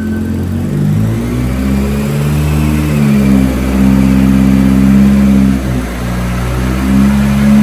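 Turbocharged Honda K24 four-cylinder in a Nissan Hardbody truck running loudly, revved up and let back down several times so that its pitch steps up and down.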